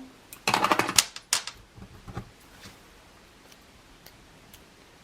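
Hands handling craft supplies on a work table: a quick run of clicks and rattles for about a second near the start, then a few scattered light clicks and taps.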